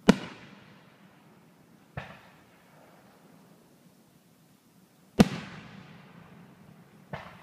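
Aerial firework shells bursting: two loud bangs about five seconds apart, each followed about two seconds later by a fainter bang, every one trailing off over a second or so.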